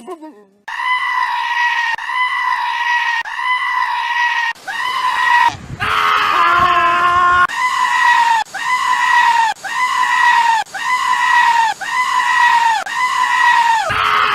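A goat giving loud, high-pitched, scream-like bleats over and over. A few held calls are followed, in the second half, by a quick string of short calls, about two a second.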